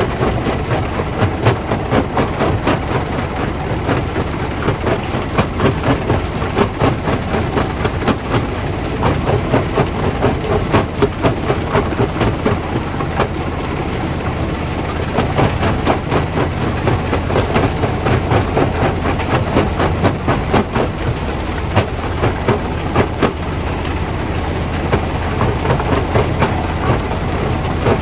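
Stone crushing plant machinery running, a steady low hum under a continuous, irregular clatter of rock knocking against rock and steel.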